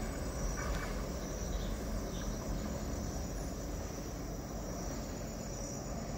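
Passenger train moving away with a low rumble and a short last wheel squeal just after the start, under a steady high-pitched chirring of crickets or other insects.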